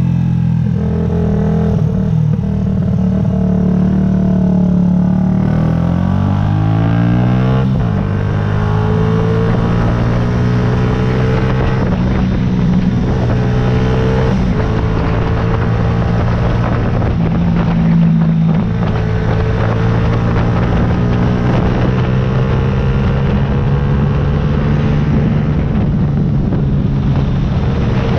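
2009 Yamaha YZF-R125's 125 cc single-cylinder four-stroke engine running under way. Its pitch falls a few seconds in, then holds steady at cruising revs.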